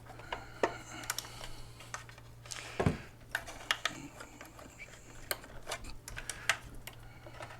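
Scattered small clicks, taps and knocks of hands handling new batteries and fitting them into a mobility scooter's battery case, with a louder knock about three seconds in, over a low steady hum.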